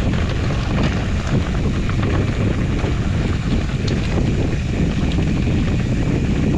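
Steady wind rumble on the microphone with many small rattles and clicks through it, from a fat-tire mountain bike being ridden over a trail.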